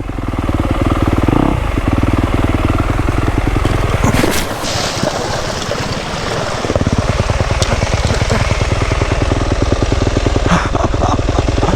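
Dirt bike's single-cylinder engine running as it rides through a creek, with a burst of water splashing about four seconds in while the engine note drops for a few seconds, then picks back up and runs steadily.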